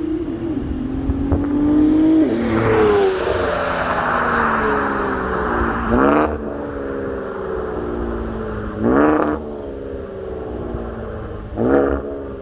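Twin-turbo VR30 3.0 V6 of a Q50 Red Sport with upgraded turbos, catless downpipes and a Motordyne catback exhaust accelerating hard: the engine note climbs about two seconds in with a loud rush of noise, then three short loud bursts come about three seconds apart, with the engine running on between them.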